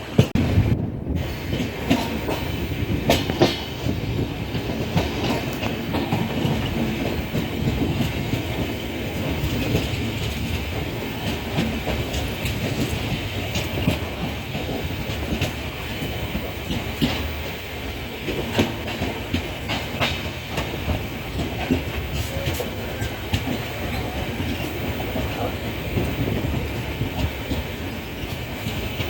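Moving passenger express train running on the rails: a steady rumble with irregular clicks and clacks of the wheels over the rail joints.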